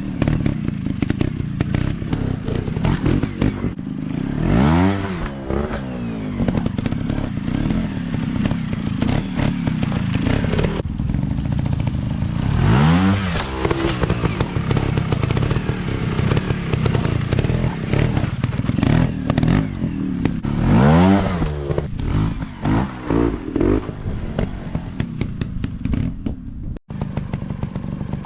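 150 cc dirt bike engines running hard, revving up and dropping back again several times, with rattling and knocking over the engine noise.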